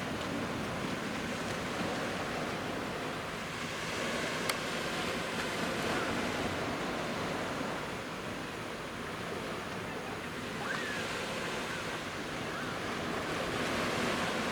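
Surf of the Genkai Sea washing onto the beach in waves of about a metre, a steady rush that swells and eases. A single sharp click about four and a half seconds in.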